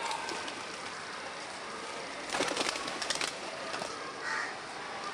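Birds scrambling for grain: a loud flurry of wingbeats a little over two seconds in, then a short call near the end, over a steady noisy background.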